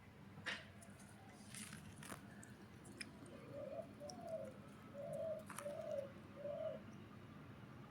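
A pigeon cooing faintly in the background: a run of about five short, low coos in the second half. A few sharp ticks come before it.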